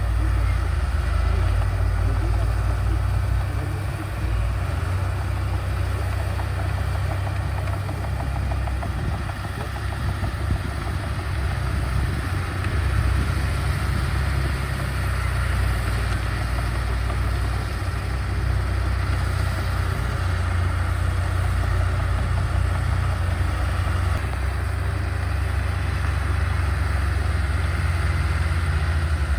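Diesel engine of heavy earthmoving machinery running steadily, a constant low drone with no break.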